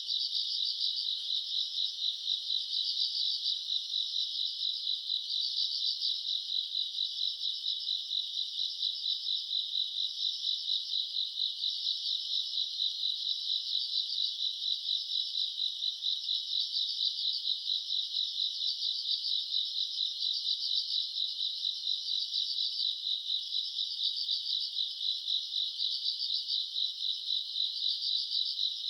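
Chorus of crickets and other grass insects trilling steadily with a high, rapid pulsing. Parts of the chorus swell and fade every couple of seconds.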